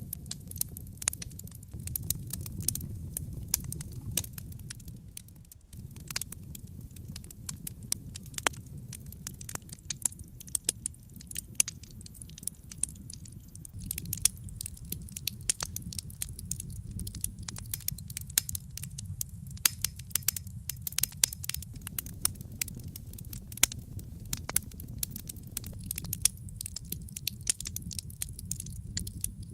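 Wood fire in a fireplace crackling, with frequent sharp pops and snaps over the low steady rumble of the flames.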